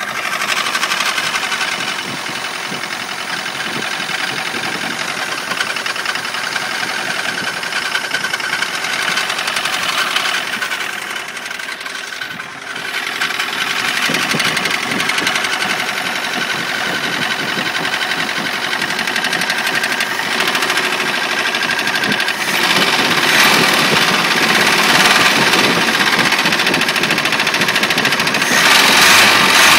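Suzuki Vitara 1.6 litre 8-valve four-cylinder engine running with a bad, rapid knocking, getting louder in steps in the second half. The knock goes with low oil pressure and badly worn big-end bearings, which the owner puts down to a failed oil pump or pickup starving the engine of oil.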